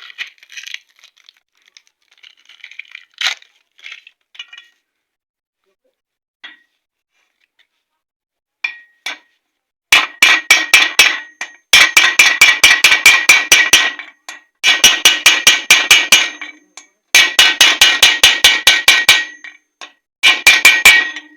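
Hammer tapping a ball bearing into its seat in a motorcycle engine crankcase half, a few light metal clinks at first, then from about halfway in five quick runs of rapid ringing metal-on-metal blows as the bearing is driven home.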